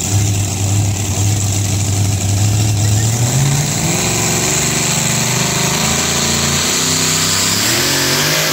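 Alcohol-fuelled two-wheel-drive pulling truck engine running at a steady low idle, then revving up about three seconds in and holding higher, with the pitch climbing again near the end.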